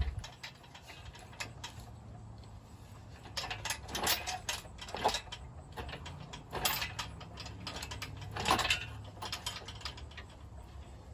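Metal lifting gear ratcheting and clanking in bursts as a car engine is pulled out, over a steady low hum.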